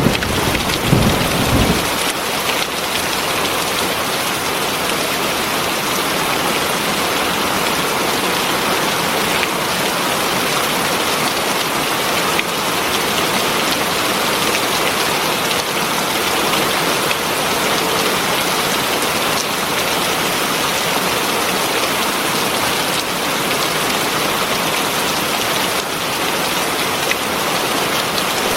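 Heavy rain falling steadily, with a low rumble of thunder fading out in the first couple of seconds.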